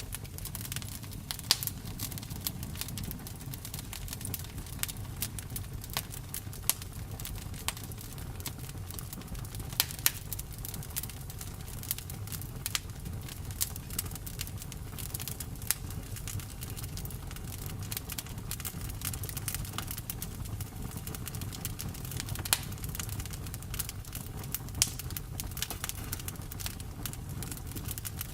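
Campfire burning, wood crackling and popping: irregular sharp cracks over a steady low rumble.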